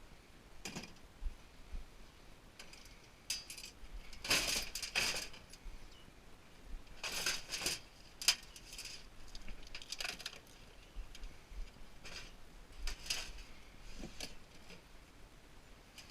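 Small metal parts and tools clinking and rattling as they are handled, in irregular bursts of clatter, loudest about four and seven seconds in.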